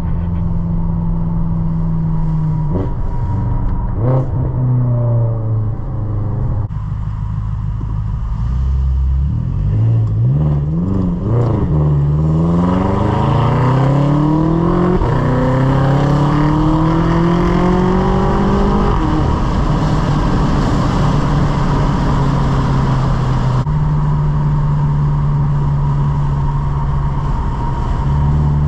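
Straight-piped BMW F10 M5's twin-turbo V8 exhaust while driving: it runs steadily, then from about ten seconds in accelerates with the pitch climbing for several seconds, and settles back to a steady cruise.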